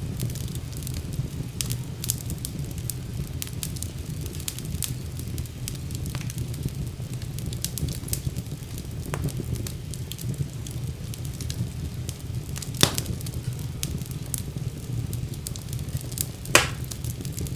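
Fire crackling in a fireplace: a steady low rumble of flames under many quick, sharp crackles, with two louder pops in the second half.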